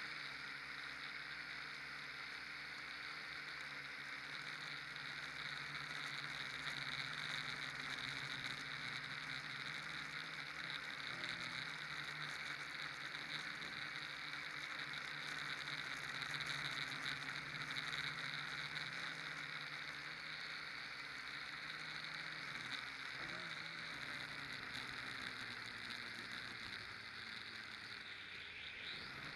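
Small radio-controlled aircraft in flight: a steady hiss with a low motor hum that shifts in pitch a few times.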